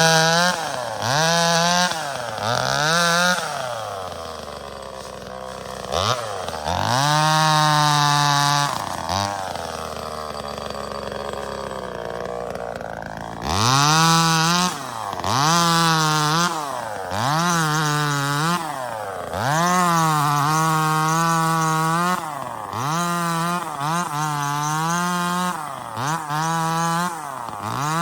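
Small 25cc two-stroke top-handle chainsaw (Neotec NCS2500) revved again and again: each burst rises quickly from idle to full throttle, holds about one to two seconds and drops back, with two longer spells of idling between runs.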